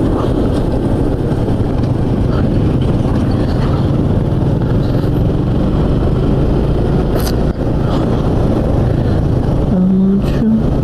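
Suzuki Gixxer motorcycle's single-cylinder engine running steadily at cruising speed, heard through heavy wind rush on the rider's microphone.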